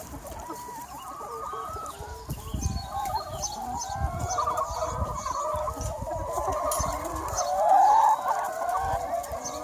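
A large free-range flock of chickens clucking and calling over one another, with one louder call standing out about eight seconds in.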